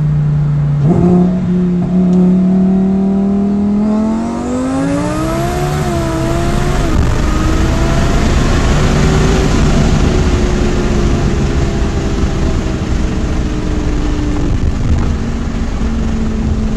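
Twin-turbo Lamborghini Huracán V10, boosted with two 68 mm turbos, accelerating at full throttle from highway speed. Heard from inside the car, the engine note climbs steeply and changes gear, then gives way to a loud, rough rush at over 130 mph. The revs drop near the end as the car slows.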